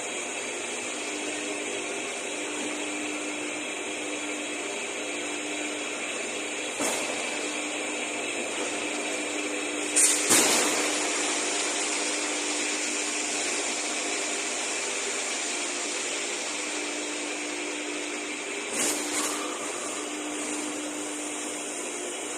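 Plastic sheet extrusion line running: a steady machine hum and whine with hiss. It is broken by a sharp knock about a third of the way in, two louder knocks near the middle and two more near the end.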